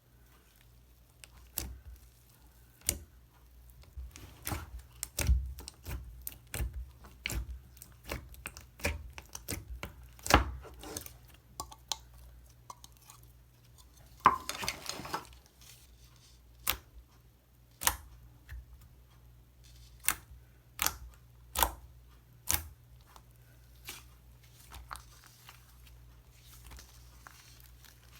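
Slime being pressed, stretched and poked by hand, giving irregular sticky pops and clicks, with a longer crackling stretch about halfway through.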